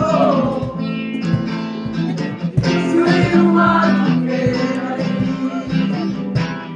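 Acoustic guitar strumming with singing.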